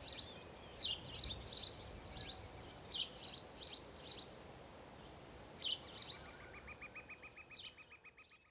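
Small birds chirping in short, scattered bursts of high chirps over faint outdoor hiss. From about six seconds in, a fast, even trill of ticking notes joins, and the whole fades out near the end.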